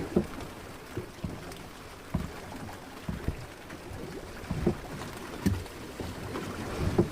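Water slapping and knocking against the hull of a small wooden fishing boat rocking in choppy, windy sea, with irregular low thuds about once a second.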